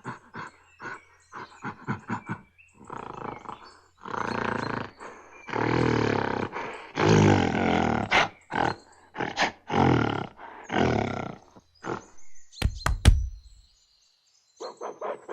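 Big cat roaring in a bout: short grunts building to several long, loud roars in the middle, then shorter grunts again. A sharp knock comes about two-thirds of the way through, followed by a brief gap and a fresh run of short grunts near the end.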